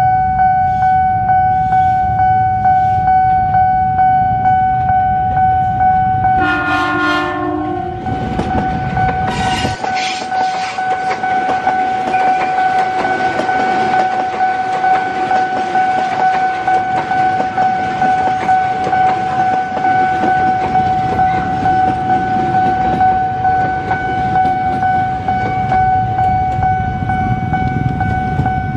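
A KRL electric commuter train sounds its horn once for about a second and a half, then runs past close by with wheels clattering over the rails. Under it a level-crossing warning alarm keeps up a steady high tone.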